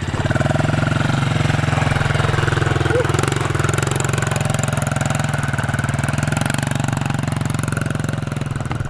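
Dirt bike engine running steadily, with a slight dip in pitch about three to four seconds in.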